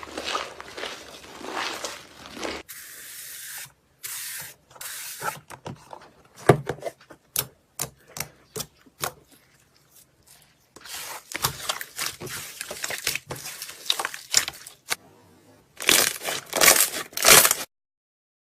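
Slime being worked by hand, giving a dense run of small crackles, then a series of separate sharp clicks and pops, then louder crackles that cut off suddenly near the end.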